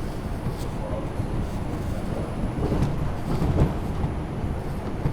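Steady low rumble inside an R142 subway car, with a few knocks a little past halfway.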